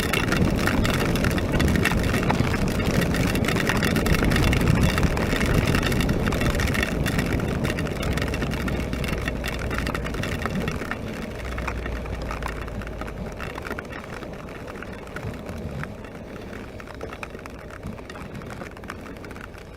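Honda NC700X motorcycle on the move in heavy rain: a rush of wind and wet-road noise over the parallel-twin engine. It fades steadily over the second half as the bike slows.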